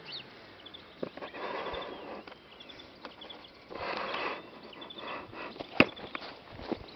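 Small birds chirping in short high trills, with two brief rustling noises and a sharp click near the end.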